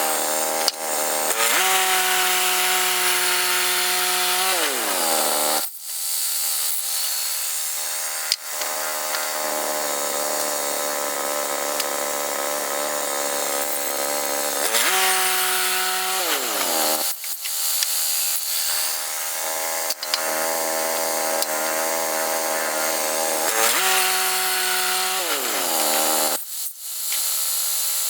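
Woodland Mills HM122 portable bandsaw sawmill running, its engine working steadily as the band blade cuts a pine log lengthwise. The engine note falls and dips three times.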